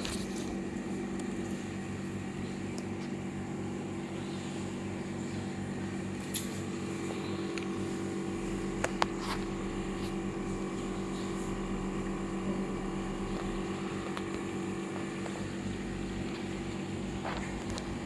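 A steady machine hum, with a few faint clicks now and then.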